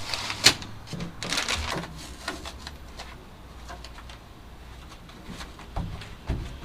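Rustling and scraping of a large sheet of sound-deadening material being worked into place over a truck's floor tunnel, with a sharp knock about half a second in and smaller clicks later.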